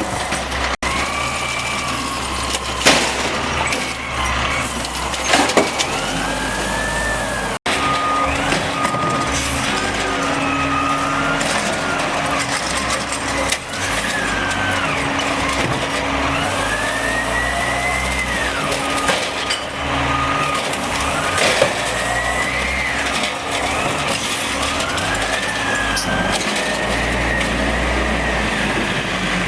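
Automated side-load garbage truck at work: its engine and hydraulics rise and fall in pitch every few seconds as the arm cycles, with a few sharp bangs as a cart is shaken out.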